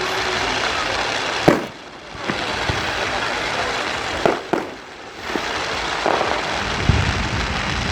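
Fireworks bursting: sharp bangs about a second and a half in, a quick pair midway and another soon after, then a low rumble near the end, over a steady noisy background.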